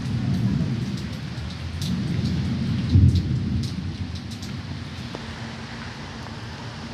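Steady rain falling, with scattered drops ticking and low rumbles that swell twice, loudest about three seconds in.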